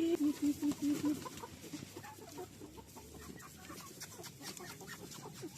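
Chickens clucking: a quick, even run of low clucks, about six a second, that stops about a second in, then softer scattered clucking.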